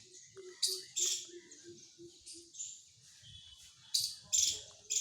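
Birds chirping: a steady high twittering with several loud, sharp, high chirps in between. Under it, a low note repeats about three times a second through the first half.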